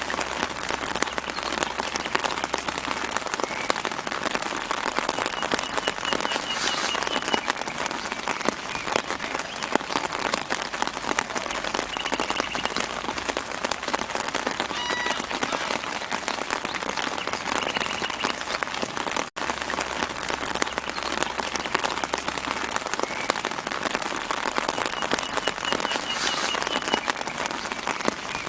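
Steady light rain falling on leaves, a dense patter of drops, with faint birds chirping briefly in the background a few times. The rain cuts out for an instant about two-thirds of the way through.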